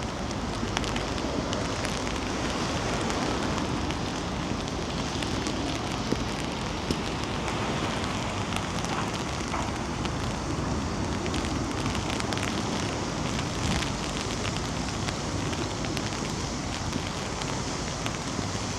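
Steady rain with many small drop ticks close to the microphone, over a low wind rumble on the microphone.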